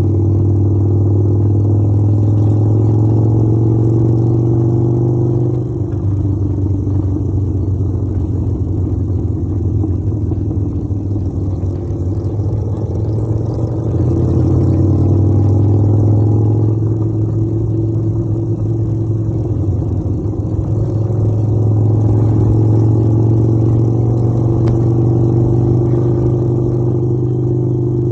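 Harley-Davidson V-twin motorcycle engine running under way, its note dropping about five seconds in, climbing again near the middle, dipping once more and rising toward the end as the revs change.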